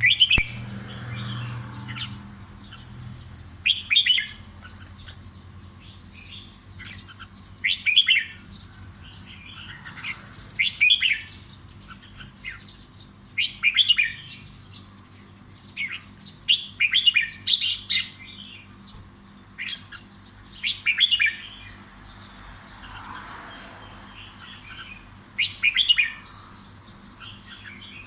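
Caged red-whiskered bulbul singing short, bright song phrases, repeated about every three to four seconds.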